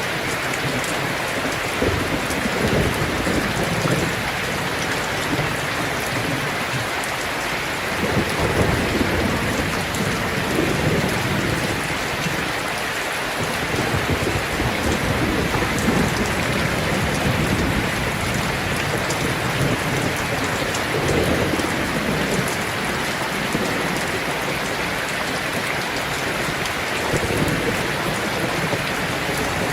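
Heavy rain drumming steadily on a tin roof, with low rolls of thunder swelling under it several times.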